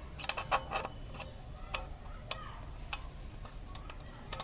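Irregular metallic clicks and clinks of tools and small metal parts being handled and set down, some ringing briefly.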